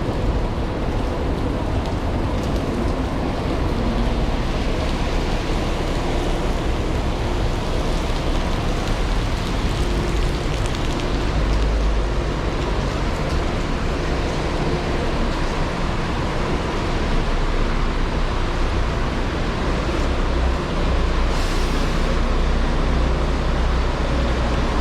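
Heavy rain pouring down on a city street: a steady wash of noise over a deep low rumble.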